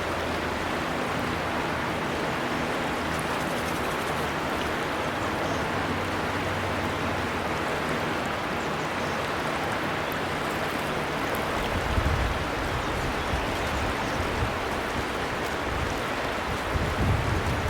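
River water flowing steadily, a constant rushing hiss, with low rumbles coming in about twelve seconds in and again near the end.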